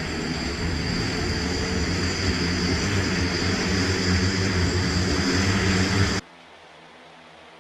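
Aircraft engine running at high power: a loud, steady roar with a high, steady whine over it. It cuts off abruptly about six seconds in.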